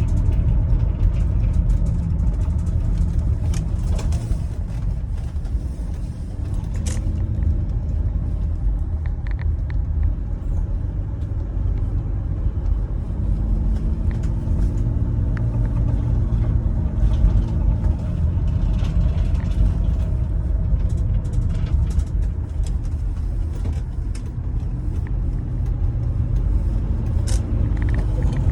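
2004 Chevrolet Venture minivan driving: a steady low road rumble with the 3.4-litre V6 engine's note shifting in pitch, and a few light clicks and rattles.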